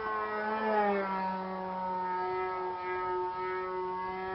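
O.S. 55AX two-stroke glow engine of a radio-controlled Edge 540 aerobatic model plane running in flight: a steady high whine whose pitch drops about a second in, then holds level.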